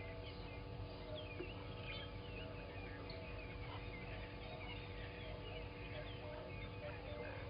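Morning bird chorus: many birds chirping and twittering at once, with a steady faint hum underneath.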